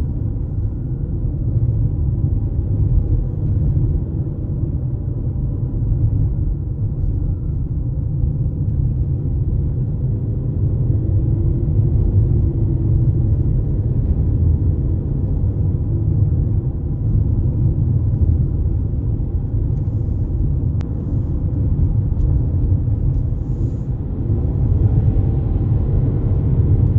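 Steady low road rumble heard inside a car climbing a mountain highway, with a faint engine note drifting up and down.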